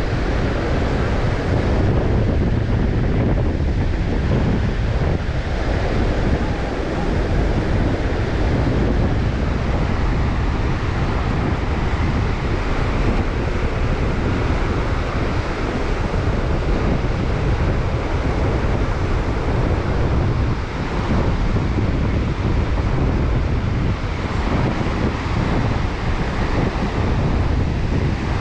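Baltic Sea surf breaking on the shore under strong wind, with wind buffeting the microphone: a steady rushing with a heavy low rumble.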